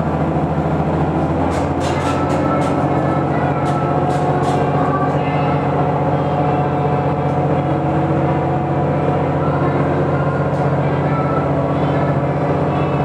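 Aizu Railway diesel train running steadily, heard from on board: a low engine drone with wheel and rail noise, and a run of sharp clicks in the first few seconds.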